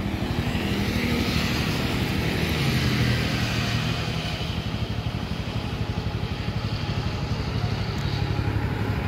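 Motorcycle engine running under way, its note dropping slightly about two and a half seconds in, with a steady hiss of wind over it.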